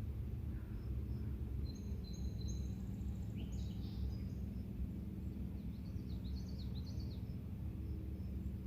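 Songbirds chirping and trilling in two short spells, over a steady low outdoor rumble.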